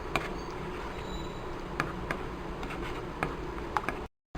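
Tamarind puree simmering in a pan: a steady hiss with a few scattered pops and ticks of bursting bubbles. The sound drops out completely for a moment near the end.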